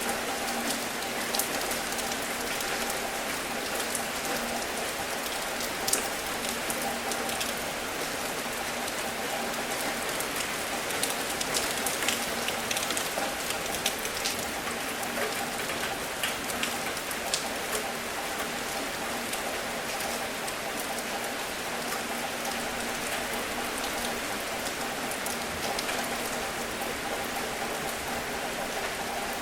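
Steady rain falling, with many individual drops ticking sharply on a surface throughout.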